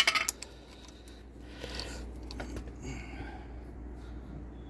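Hand tools and small metal parts clinking sharply once at the start, then faint handling sounds while the fuel line is being fitted to the carburetor.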